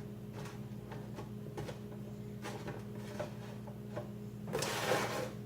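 Frozen chicken nuggets set down one at a time on a pan, with light taps, over a steady appliance hum; a short rustle comes near the end.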